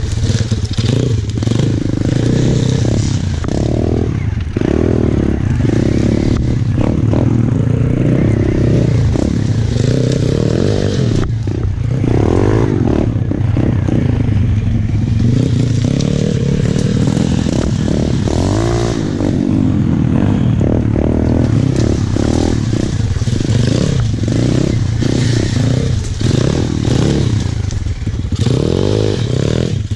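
Pit bike engine being ridden along a rough dirt trail, its revs rising and falling continually as the rider works the throttle.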